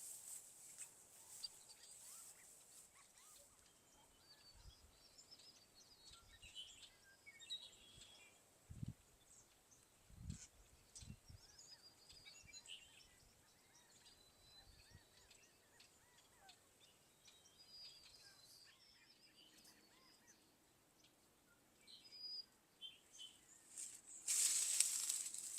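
Birds chirping and calling faintly in short scattered notes over quiet outdoor background noise, with a few soft low thumps midway. Near the end there is a louder burst of rustling noise.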